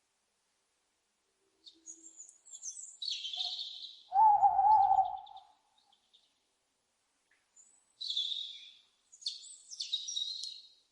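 An owl hoots once, a wavering call about four seconds in. Higher-pitched scratchy chirping calls come before it and again twice near the end, with stretches of silence between.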